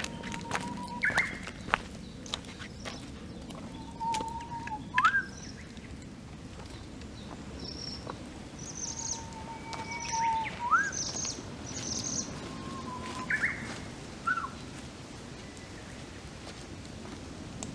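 Birds singing: one repeats a long held whistle that ends in a quick upward flourish, about four times, while another gives short high chirps. A campfire crackles with scattered sharp pops underneath.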